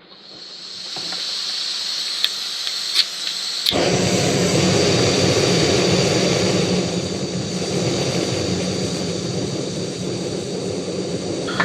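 Portable gas camp stove: gas hisses from the burner, there are a few sharp clicks, and about four seconds in the burner lights with a sudden rush. The flame then runs steadily.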